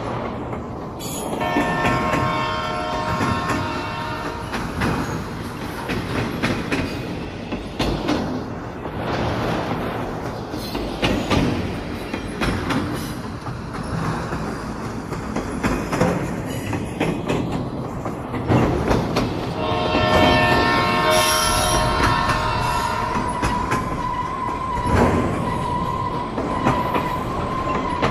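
Kalka–Shimla narrow-gauge toy train running, its wheels knocking and rumbling over the rails. Shrill ringing tones come twice, about two seconds in and around twenty seconds in, and a steady high wheel squeal holds through the last several seconds as the train rounds a tight curve.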